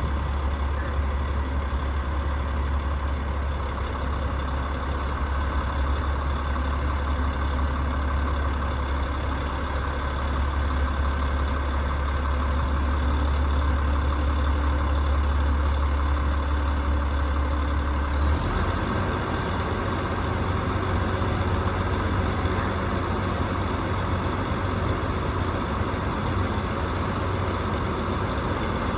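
Rooftop HVAC unit running with a steady, loud mechanical hum. About two-thirds of the way through, its deep low hum drops out suddenly and a different, slightly higher hum takes over, as if one part of the unit switched off or changed stage.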